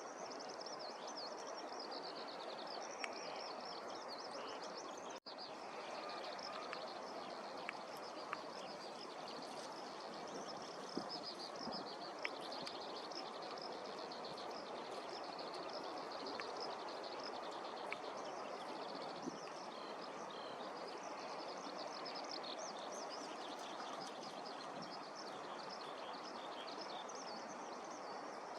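Small songbirds singing continuously in rapid, high-pitched chirping phrases over a steady background hum of outdoor noise. The sound cuts out for an instant about five seconds in.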